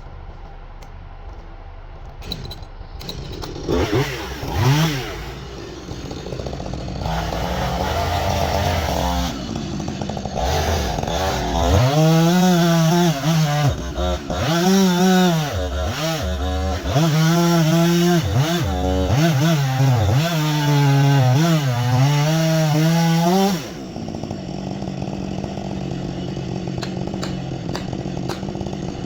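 Husqvarna 562XP two-stroke chainsaw running. It revs up briefly, then runs at full throttle for about ten seconds with its pitch repeatedly sagging and recovering as it is loaded, and then drops back to a lower, steadier run near the end.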